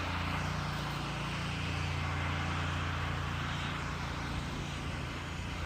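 An engine running steadily: a low, even hum under a constant hiss.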